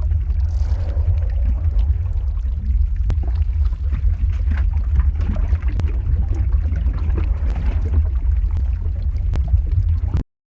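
Lava-flow ambience sound effect: a steady deep rumble with scattered crackling and popping. It cuts out abruptly near the end.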